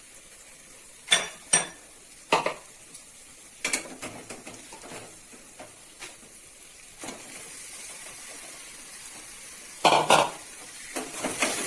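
Marinated chicken frying in a hot kadai of fried masala while a metal spatula stirs it: sharp knocks and scrapes of the spatula against the pan, a loud cluster of them about ten seconds in, over a steady sizzle that grows louder near the end.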